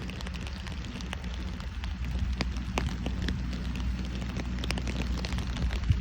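Rain pattering, with many sharp drop ticks close by, over a steady low hum.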